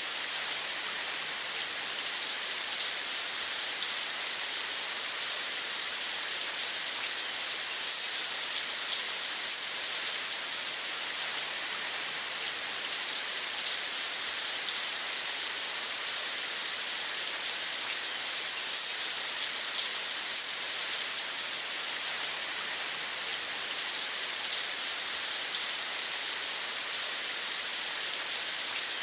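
Steady rain falling, an even hiss with a fine patter of drops, heavier in the high register.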